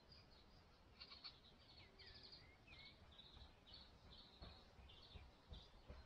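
Faint series of short, high chirping calls from small songbirds, about two a second, with a few soft low thumps.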